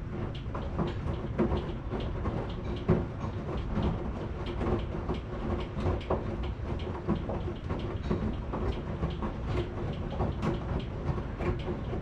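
Washing machine running: a steady low rumble with many irregular clicks and knocks, several a second, from the turning drum and its load.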